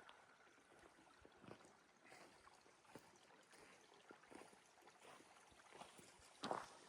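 Near silence with faint hiss and scattered faint clicks and ticks, and a couple of stronger pops near the end.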